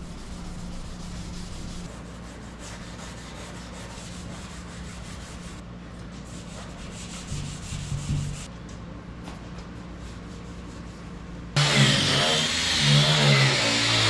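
Steady hand sanding or scuffing on a car's painted bodywork. Near the end it cuts suddenly to a much louder car engine running with a wavering pitch.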